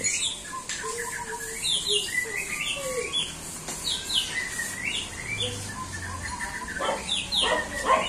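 A bird chirping repeatedly, short sweeping calls in little groups every second or so, with a louder, harsher call or rasp near the end.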